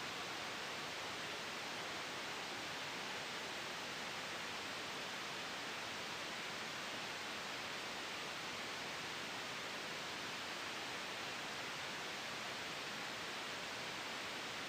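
Steady white noise: an even, unchanging hiss, strongest in the upper middle range and thinner in the low end.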